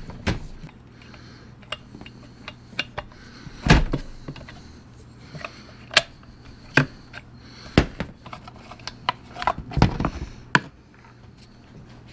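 Scattered metallic clicks and knocks of a wrench and chainsaw parts being handled as the bar and chain are taken off a Stihl MS500i chainsaw.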